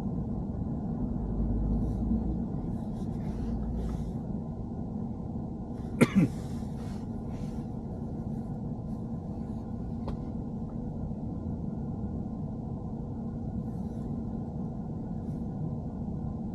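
Steady low road and engine rumble inside a moving BMW E90, with one brief, sharp, loud sound about six seconds in and a few faint ticks elsewhere.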